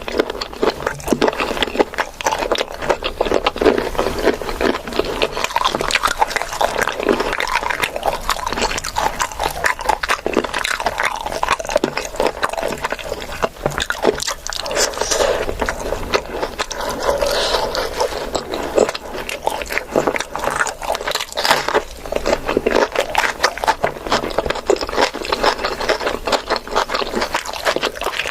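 Close-miked eating: continuous chewing, biting and wet mouth smacks, with dense irregular clicks.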